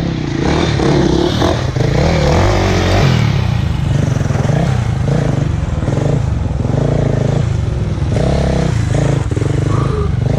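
Motocross dirt bike engine running loud, revving up and down over and over as the throttle is worked.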